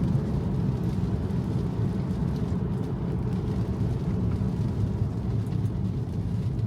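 Steady road and tyre noise heard from inside a Tesla's cabin while driving on wet pavement, a low, even rumble with no engine note.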